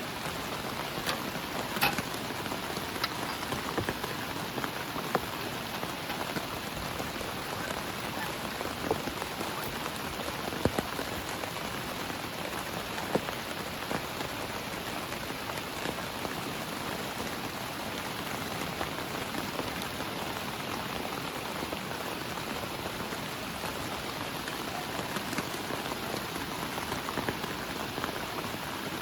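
Heavy rain falling steadily, a continuous hiss with sharper single drops striking now and then.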